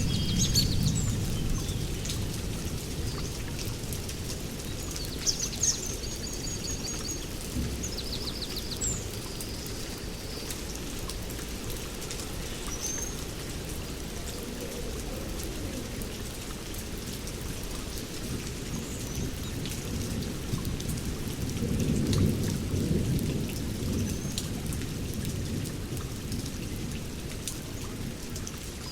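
Steady heavy rain with rolling thunder, a rumble dying away at the start and another swelling up about 22 seconds in. A few faint bird chirps sound in the first ten seconds.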